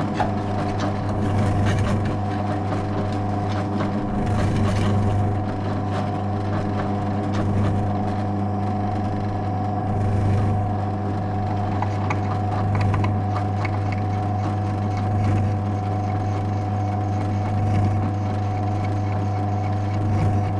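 Drill press running steadily, its bit grinding through sheet steel as spot welds are drilled out of a car-body bracket.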